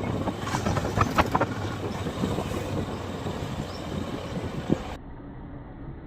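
Motorcycle on the move: a steady rumble of engine and wind noise with a few sharp clicks in the first second or so. About five seconds in, the sound cuts abruptly to a quieter, duller rumble.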